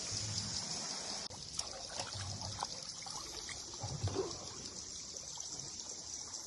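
Water trickling and dripping inside a river cave, with small drips, a few soft low thumps and a steady high-pitched hiss.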